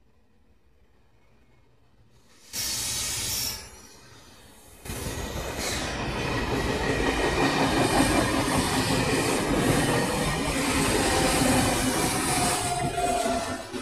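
A Trenord double-deck regional train passing close by: the rumble and clatter of its wheels on the rails start about five seconds in and build to a loud, steady run, with a thin wheel squeal near the end. About two and a half seconds in, a one-second rush of loud noise starts and stops abruptly.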